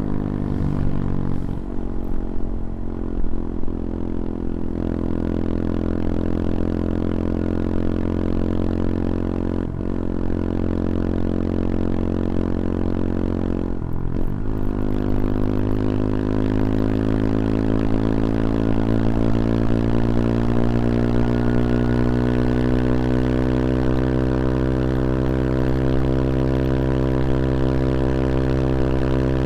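CFMoto Papio XO-1's 125 cc single-cylinder engine running under way, with wind rush. Its pitch drops and picks up again a few times in the first half, then the revs climb steadily through the second half as the bike accelerates.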